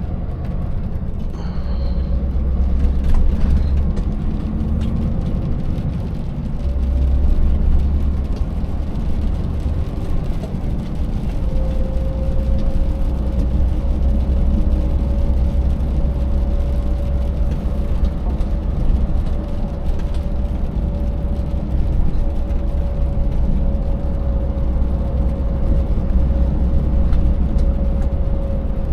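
Scania 590S truck's 16-litre V8 engine running steadily under way, with tyre and road noise. A thin, steady whine comes in about a third of the way through and holds.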